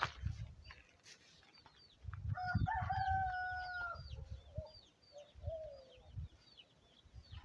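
A rooster crows once, one long call about two seconds in, with small birds chirping throughout.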